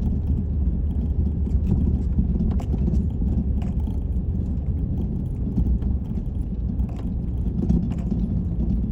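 Steady low rumble of a truck moving, heard from inside the cab, with faint scattered rattles and clicks.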